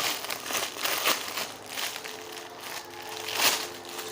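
Plastic packaging crinkling and crackling as a squishy toy wrapped in it is handled and squeezed, with louder crinkles about a second in and again near the end.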